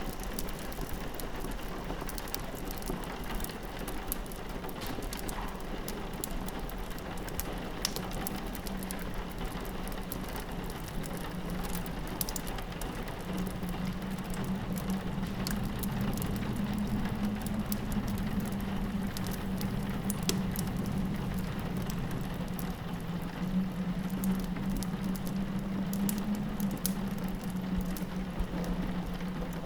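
Rain pattering against a window mixed with a crackling fireplace, whose scattered sharp pops run throughout. A low wind howl swells up about halfway through and again near the end.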